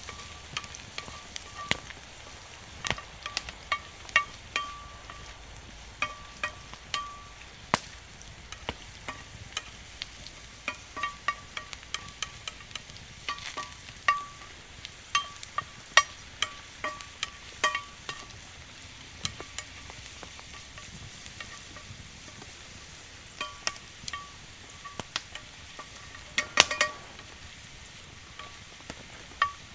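Wood fire in a bonfire stand crackling, with irregular sharp pops and snaps over a low steady hiss as steak cooks over it; the loudest pop comes near the end.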